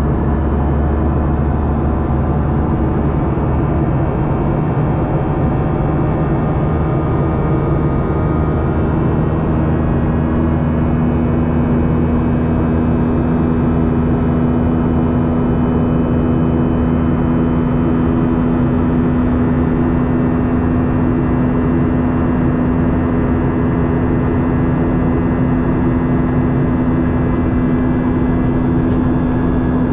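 Cabin noise inside a Boeing 737-800: the steady drone of its CFM56 jet engines, with whining tones that drift slightly in pitch and a low hum that grows stronger about ten seconds in.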